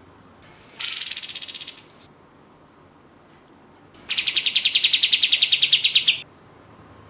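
Kapas tembak (katem) songbird giving two rapid-fire buzzy trills: a short one about a second in, then a longer one of about two seconds, each a fast, even run of high pulses.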